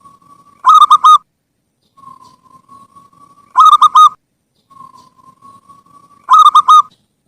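Zebra dove (perkutut) cooing: three song phrases about three seconds apart, each a soft, drawn-out note followed by a quick run of three or four loud, clipped coos.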